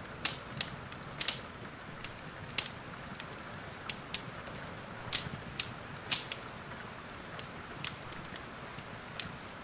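Wood fire crackling in a fireplace, with irregular sharp pops, over a steady hiss of rain.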